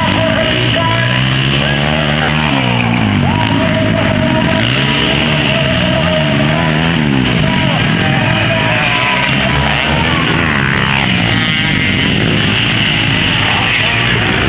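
Motocross bikes' engines revving, their pitch rising and falling again and again, mixed with loud music.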